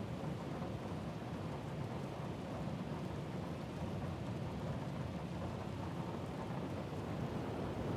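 Steady heavy rain with a low, continuous rumble of thunder underneath.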